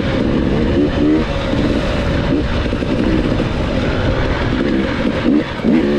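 Dirt bike engine revving up and down while riding off-road, its pitch rising and falling with the throttle over a steady low rumble.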